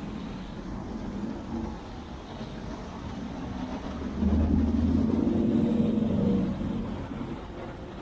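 Car engine running amid traffic noise, getting louder about four seconds in for a couple of seconds, then easing off.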